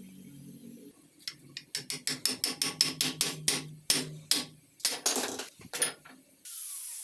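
Hammer blows on a metal tool head: a rapid run of sharp, ringing metallic strikes, several a second, that slows and stops. Near the end a loud steady hiss starts.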